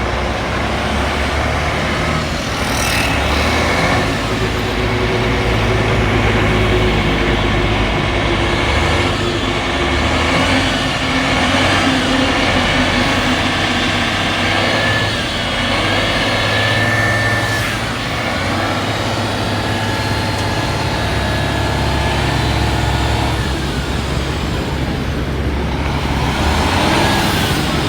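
Heavy diesel truck engine, the 12.9-litre six-cylinder diesel of a 2001 Hyundai 25-ton cargo truck, running steadily, its pitch shifting a little now and then.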